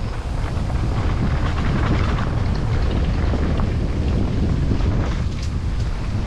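Wind buffeting the camera microphone of a mountain bike moving over a rough trail, with the bike's chain and parts rattling and clicking irregularly over the bumps.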